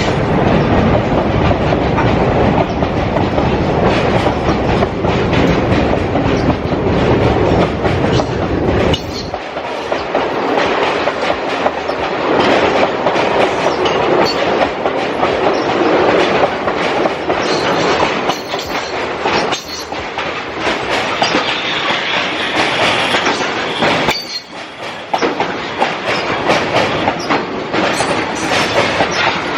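Passenger train running along the track, steel wheels clattering over the rails with a heavy rumble. The sound eases briefly twice, about a third of the way in and again near the end.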